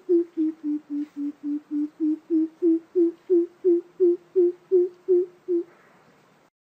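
Greater coucal calling: a long run of deep, evenly spaced hoots, about three a second, dipping in pitch and then rising again, stopping about five and a half seconds in.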